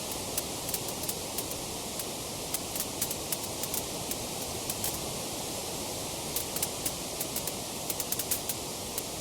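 Wood fire crackling: a steady hiss of flames with many small, sharp pops and snaps coming at irregular intervals.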